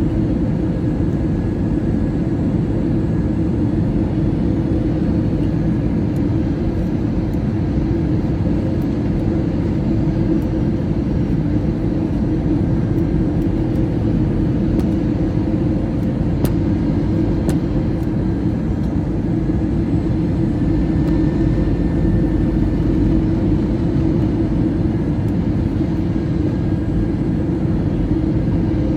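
Steady drone of an airliner's engines and rushing air, heard from inside the passenger cabin, low-pitched and even throughout.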